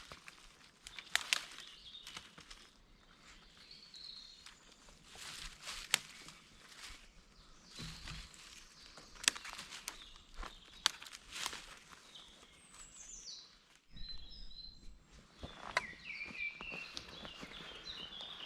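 Irregular sharp clicks and rustling in woodland, like footsteps or handling sticks and kit. Small birds chirp in the background, most busily near the end.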